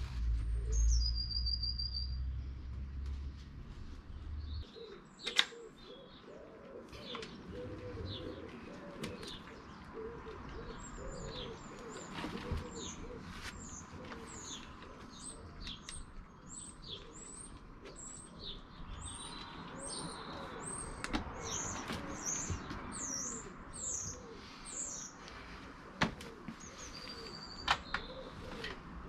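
Birds singing: many quick, repeated chirps and tweets, with a few sharp clicks, the loudest about five seconds in, and a low rumble in the first few seconds.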